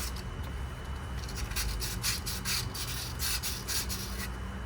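Hand scrubbing strokes, about two or three a second, starting about a second in, as corrosion and white residue are scrubbed off the front wheel hub's mounting area, over a steady low hum.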